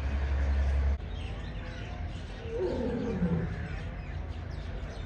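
An animal call that falls in pitch over less than a second, a little past the middle, over faint bird chirps; a low hum cuts off suddenly about a second in.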